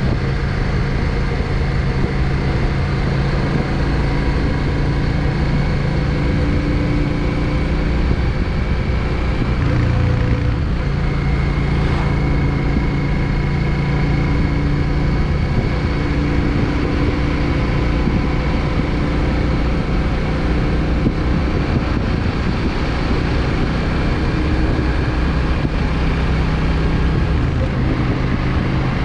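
Yamaha XVS 650 Drag Star's air-cooled V-twin engine running steadily on the road, its pitch shifting briefly about ten seconds in.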